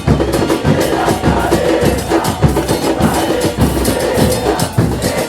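Drums, bass drums and snares, beating a fast, steady rhythm.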